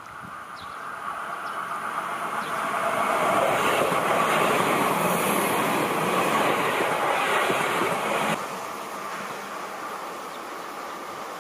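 Seibu 30000 series electric train growing louder as it approaches and runs past close by, a steady rush of wheels on rail. The sound drops suddenly about eight seconds in to a quieter train sound.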